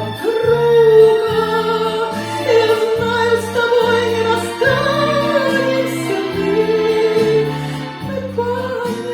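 A song: a sung melody in long, held notes over a steady chordal accompaniment that changes about once a second.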